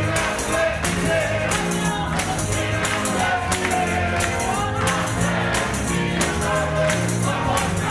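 Gospel music: voices singing over a bass line and a steady tambourine beat.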